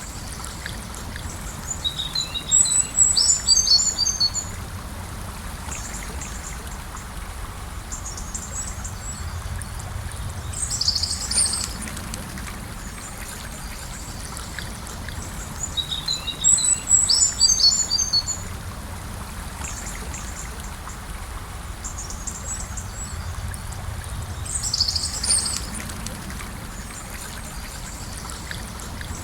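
Gentle river flowing steadily, with a songbird singing four short, high phrases over it.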